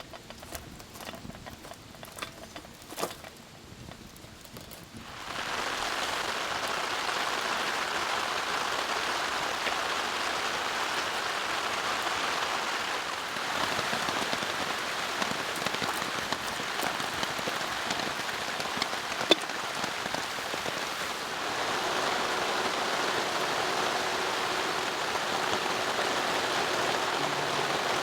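Rain falling: a light patter of scattered drops for the first few seconds, then about five seconds in it jumps to a dense, steady rush of rain that continues.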